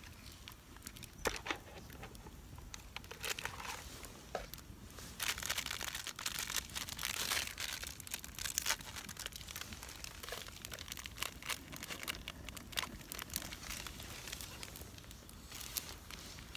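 Crinkling and rustling of material being handled, with many scattered small clicks and knocks; densest a few seconds in.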